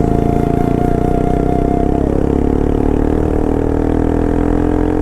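Bajaj Pulsar RS200's single-cylinder engine and exhaust running at steady high revs while the motorcycle cruises, the pitch easing down slightly about two seconds in.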